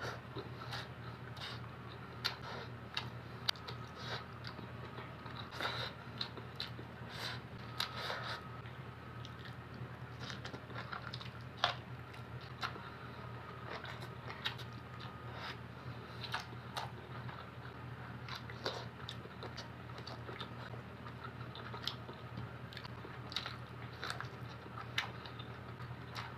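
Close-up eating sounds: a person biting and chewing, with irregular wet clicks and crunches every second or so over a steady low hum.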